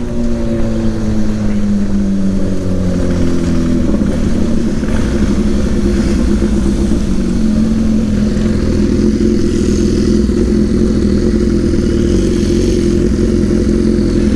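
BMW G 650 GS single-cylinder motorcycle engine slowing down, its pitch falling for about the first four seconds, then running steadily at low revs, with wind noise over it.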